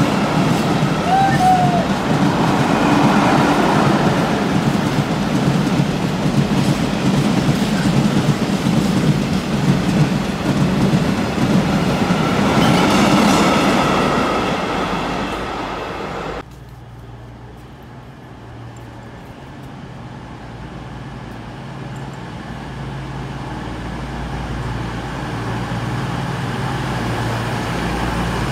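A freight train of curtain-sided wagons rolls past, its wheels clattering and rumbling over the track, with a short wheel squeal about a second in. After a cut at about 16 seconds, a CrossCountry Voyager diesel multiple unit's underfloor engines run with a low drone. The drone rises in pitch in steps and grows steadily louder.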